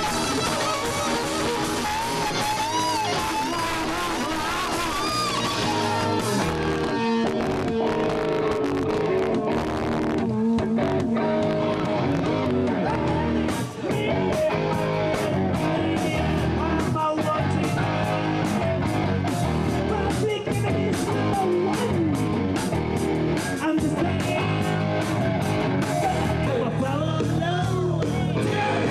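A rock band playing live: electric guitar over bass, with steady drum hits through the second half.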